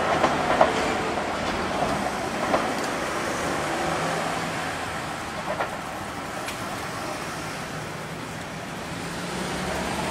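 Seibu 6000-series electric train pulling away, its running noise fading as it recedes, with sharp wheel clicks over the rail joints and points, several in the first few seconds and one more about five and a half seconds in.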